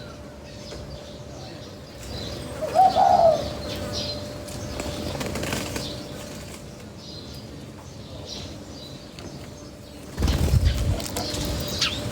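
Birds feeding: wings flapping, with a short call about three seconds in and faint chirps throughout. A louder burst of low flapping or rustling comes about ten seconds in.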